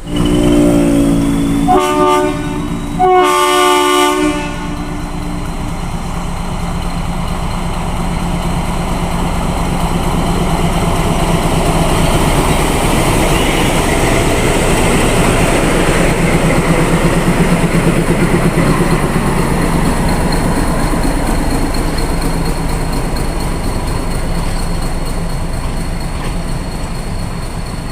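Ooty mountain train sounding three loud horn blasts in the first four seconds. It then runs on with a steady rumble and the clatter of wheels on the rails, which swells toward the middle and eases a little near the end.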